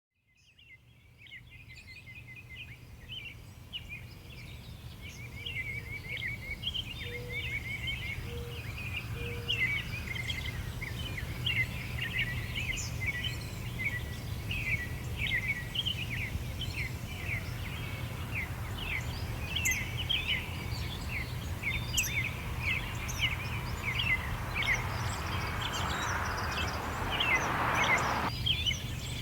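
Many small songbirds chirping and twittering rapidly over a steady low rumble of outdoor background noise, fading in from silence at the start. Near the end a rushing noise swells up and cuts off suddenly.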